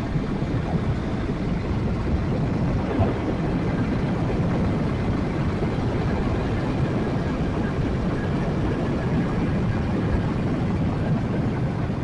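Yamaha Jupiter MX 135 motorcycle being ridden at a steady pace, its engine running under a steady rumble of wind on the microphone.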